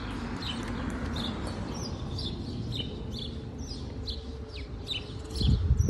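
A songbird chirping over and over, short high chirps about two or three a second, over a steady low rumble. A brief louder low rumble comes near the end.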